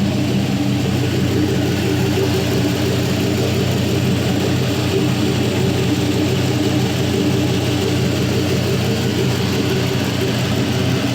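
Chevrolet 4.8L LR4 Gen III LS V8 idling steadily at about 700 rpm with a nice rumble. It is warmed up and running in closed loop.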